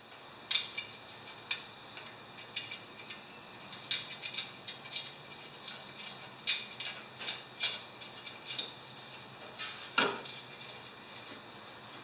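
Irregular metallic clicks and clinks of hand tools on the muffler's mounting bolts as the muffler is bolted back onto a lawn tractor, some in quick runs like short ratchet strokes, with one sharper knock about ten seconds in.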